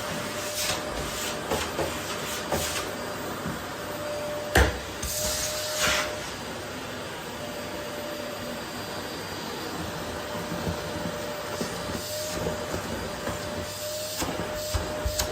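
Vacuum cleaner running steadily with a faint steady whine as it is pushed over a wooden floor picking up rose petals. A sharp knock about four and a half seconds in, followed by brief rushing hisses, with small clicks and bumps scattered throughout.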